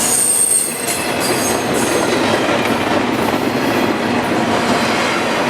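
Freight cars of a CSX intermodal train rolling past on the rails, a steady loud rumble of steel wheels. A brief high wheel squeal comes in the first second.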